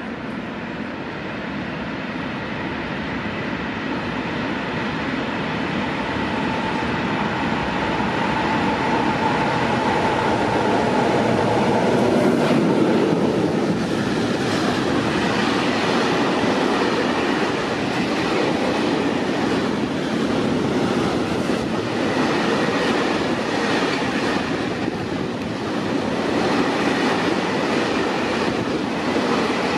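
A freight train of open high-sided wagons passing close by. It grows louder over the first dozen seconds as it approaches, with a faint whine along the way, then keeps up a steady rolling rumble with repeated wheel clatter over the rail joints as the wagons go by.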